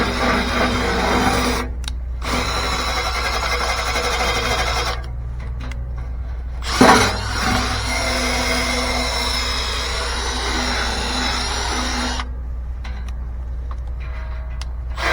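Cordless drill spinning a nylon brush that scrubs a furnace blower wheel, stopping briefly a few times, with a single knock about 7 seconds in.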